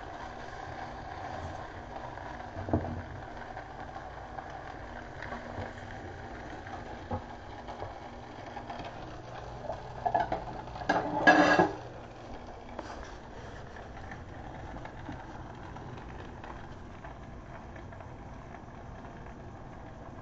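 Chopped onions frying in butter sizzle steadily in a pan, with an occasional utensil knock. About ten seconds in comes a loud burst of clattering dishes and metal as dishware is pulled from a dish rack.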